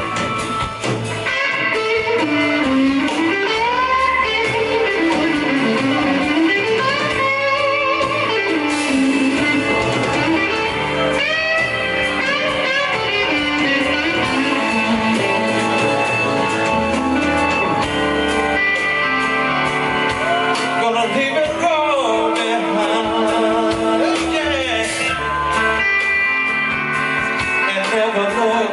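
Live blues-rock band playing, led by electric guitar lines with bent and wavering notes over the band.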